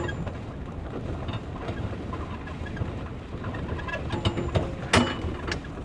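Car cabin noise while driving over a bumpy road: a steady low rumble with faint, scattered squeaks and light knocks from the interior, and a sharper knock about five seconds in. The driver puts the knocking down to an unfastened seat belt swinging about.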